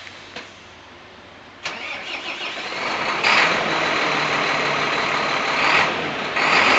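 Renault Premium 440 truck's diesel engine cranking and starting about a second and a half in, then running loudly, with a sharp jump in loudness about three seconds in and a short dip near the end.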